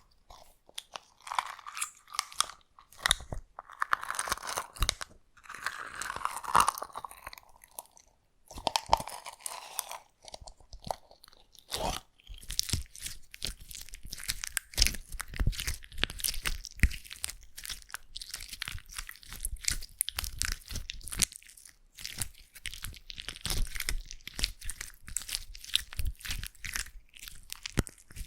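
Slime being handled: irregular squishing and stretching at first, then, after about twelve seconds, a dense run of crackling and popping clicks.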